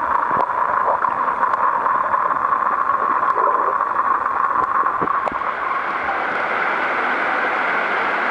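Steady rushing of water falling down a cascading waterfall, with a few faint clicks over it.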